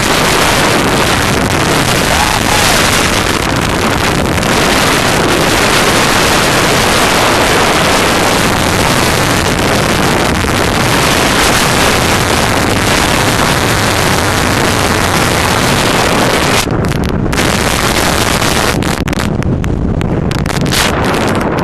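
Loud wind rushing over a helmet-mounted camera's microphone during wingsuit flight, a steady roaring hiss. Near the end the high part of the hiss drops out briefly, twice.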